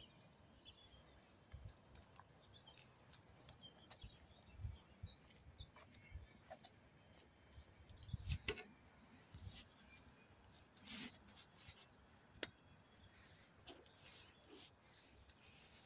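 Faint outdoor ambience with small birds chirping in short bursts several times, over occasional low thumps and clicks.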